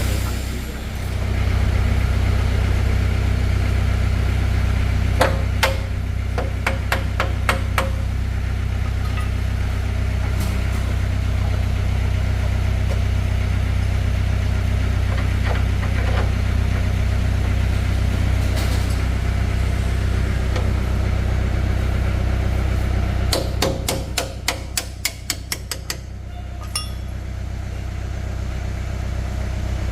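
Two runs of hammer blows over a steady low engine hum: about eight spaced strikes about five seconds in, and a faster run of about a dozen strikes about 23 seconds in.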